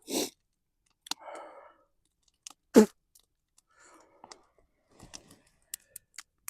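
A person chewing hot roasted mushrooms, with wet mouth sounds and short breaths, and a few sharp clicks near the end.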